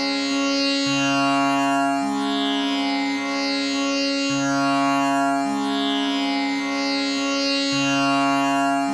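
Tanpura tuned to C sharp, its strings plucked in a repeating cycle that comes round about every three and a half seconds. Each pluck blooms into buzzing overtones that sweep up and fade over a continuous drone.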